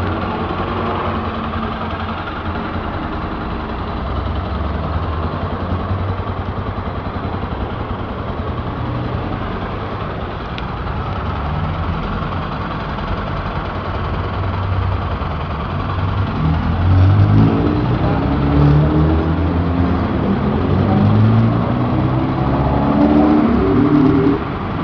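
Honda XR250 Tornado's single-cylinder four-stroke engine idling steadily, then revved repeatedly from about two-thirds of the way through, its pitch rising and falling with each blip of the throttle.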